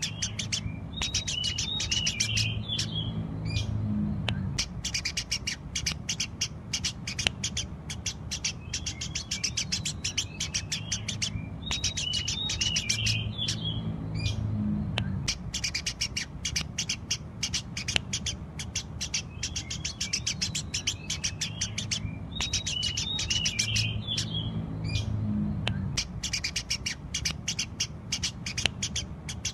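Eurasian tree sparrows chirping loudly and without pause, a dense stream of rapid short chirps. A warbled phrase comes back about every eleven seconds.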